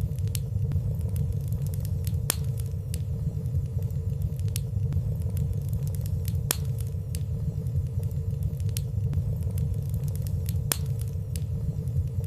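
Fire burning in a fireplace: a steady low rumble of flame with frequent small crackles scattered through it, a few of them sharper.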